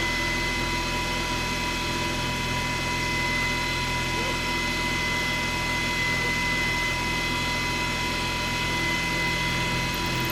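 Milling machine running steadily while cutting the riser's recoil grooves, with a constant high-pitched whine.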